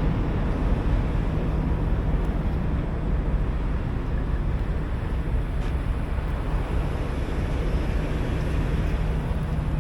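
Steady low rumble of a truck engine running, with a constant low hum and no breaks.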